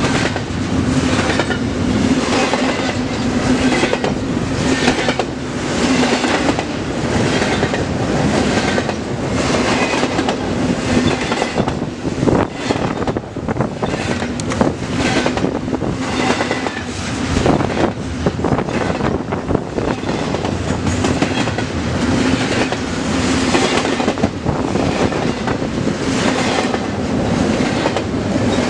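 Double-stack intermodal container train passing close by. The well cars rumble and rattle steadily, with a regular clickety-clack of wheels over rail joints about once a second.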